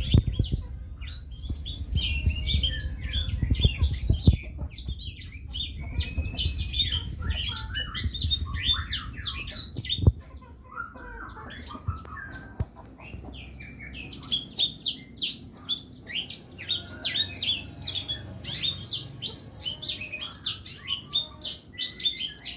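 A blackthroat (black-throated canary) singing in fast, high-pitched twittering trills. About halfway through there is a lull of a few seconds with a few softer, lower notes before the rapid song picks up again.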